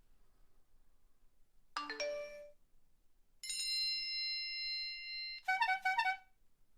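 A string of electronic chime sound effects: a quick rising run of notes about two seconds in, then a steady ringing tone held for about two seconds, then a fast repeated ringing trill like a phone or alarm ring.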